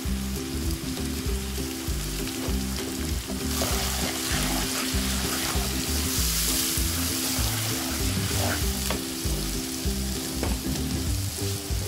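Oil sizzling around tomatoes, ginger-garlic paste and spices in a nonstick wok while a wooden spatula stirs and scrapes through them: the masala base for a gravy being fried. The sizzle swells for a few seconds in the middle.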